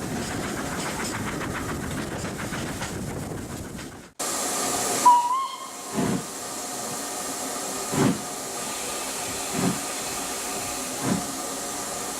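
Steam-hauled train running along the track, then a cut to a steam locomotive standing with steam hissing. It gives a short whistle, then starts away with slow exhaust chuffs that come gradually quicker.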